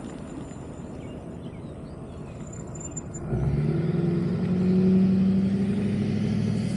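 Wind and road rumble while riding an electric scooter. About three seconds in, a louder steady low hum of a vehicle's motor joins and holds.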